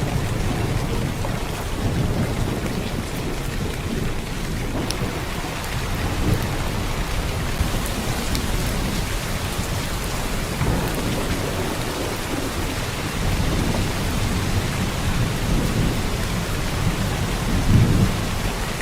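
Heavy downpour of rain: a steady hiss of rain over a deep low rumble that swells and fades, loudest near the end.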